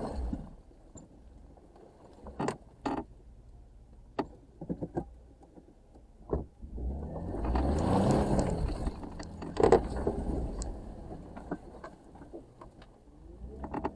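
Jeep Wrangler engine running low while the Jeep backs up on a dirt trail, swelling once around the middle as it revs up and eases off. Scattered sharp knocks and clunks come through as it moves.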